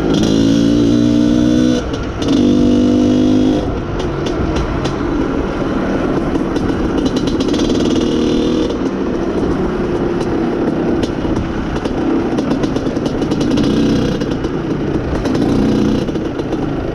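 Izh Planeta Sport's single-cylinder two-stroke engine pulling under way: loud high revs for the first few seconds, broken by a short dip near two seconds. It then runs at steadier, lower revs with scattered clicks. The owner says this engine has been running lean.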